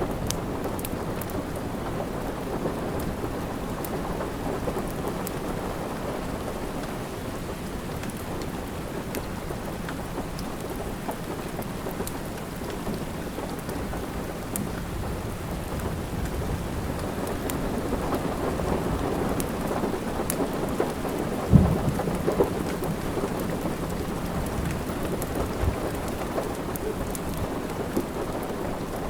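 Steady rain, with sparse sharp crackles from a wood fire scattered through it. A single louder low thump comes about two-thirds of the way through.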